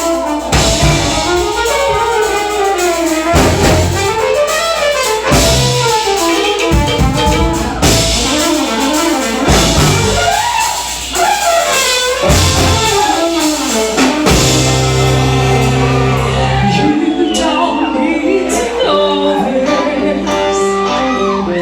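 Live band with a horn section playing an instrumental passage: saxophone and trumpet lines over drum kit and bass, loud and steady.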